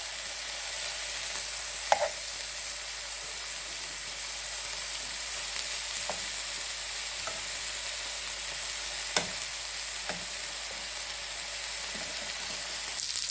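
Boneless chicken pieces frying in olive oil in a pan: a steady sizzle, broken by a few sharp clicks.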